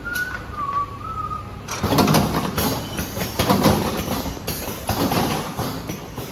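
Automatic cartoning machine running, with a dense mechanical clatter that comes in repeating strokes as it cycles. The clatter starts about a second and a half in, after a wavering whistle-like tone.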